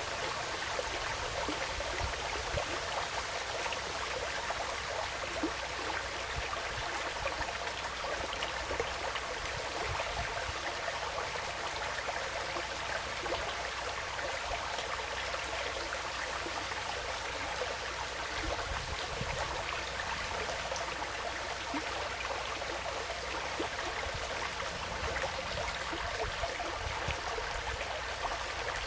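Forest stream flowing steadily, a continuous babble of water with small splashes and no change across the stretch.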